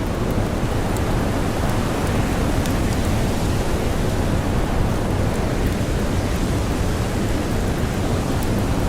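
Snowstorm wind and blowing snow as a steady, dense, deep rushing noise, with faint scattered crackles of a campfire.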